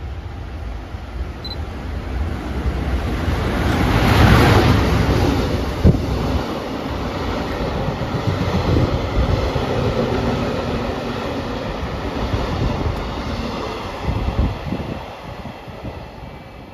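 JR Freight EF210 electric locomotive hauling a container freight train through the station without stopping. The noise builds to a peak as the locomotive passes about four seconds in. The container wagons then rumble past with scattered clacks and knocks from the wheels, and the sound fades near the end as the train draws away.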